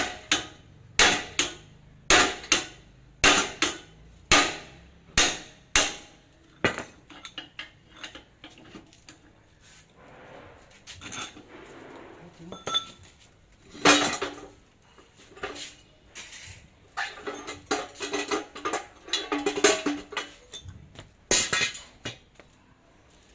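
Hammer blows on metal, struck about twice a second for the first six seconds, then scattered lighter knocks and clinks, with one hard blow about 14 seconds in and another run of blows a few seconds later.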